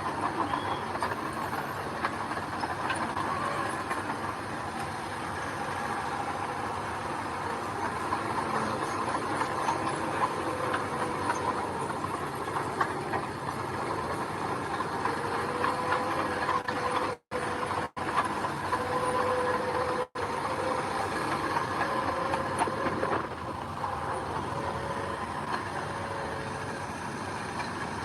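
Diesel engine of earthmoving machinery running steadily under work. The sound drops out briefly three times about two-thirds of the way through.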